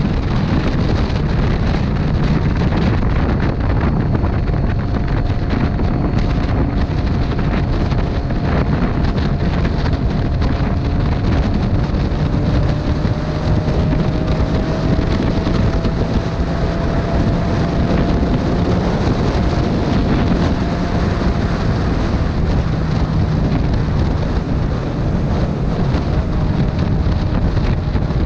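Heavy wind rush over the microphone of a riding motorcycle, with the engine's steady drone underneath at an even cruising speed, its pitch drifting only slightly.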